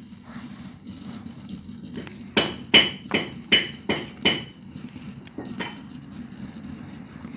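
Small metal parts knocking together: a quick run of about six sharp clicks with a short metallic ring, then one more a little later.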